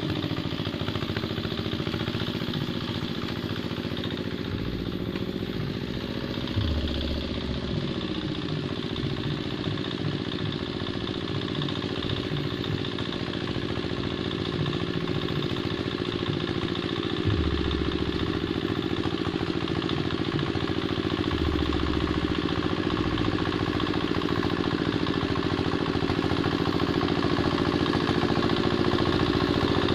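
Two-wheel hand tractor engine running steadily under load while ploughing a wet rice field, with a few low thuds. The engine grows slightly louder toward the end.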